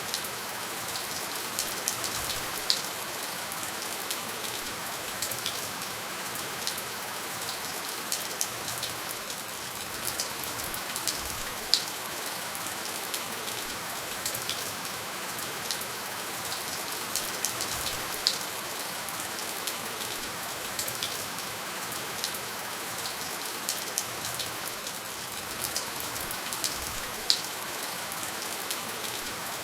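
Steady rainfall: an even hiss of rain with many individual drops ticking and pattering on a hard surface, a few louder close drops standing out. No thunder.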